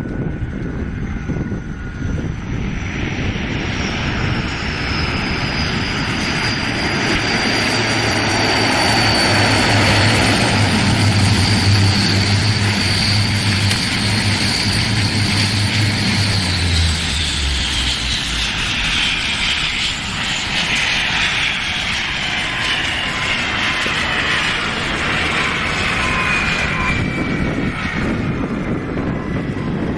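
Aircraft engines passing close by. The roar builds to a peak, then the high whine and the low hum both drop in pitch as it goes past.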